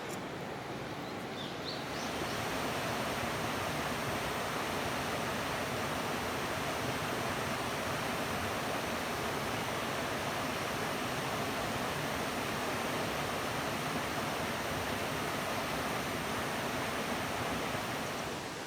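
River water flowing steadily, a continuous rushing noise that gets louder about two seconds in and drops back near the end.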